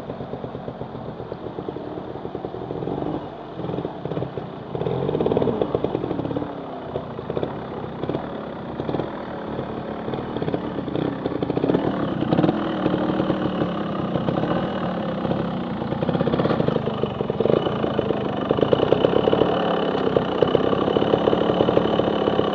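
Trial motorcycle engine running and revving up and down in uneven blips as it is ridden, getting louder toward the end.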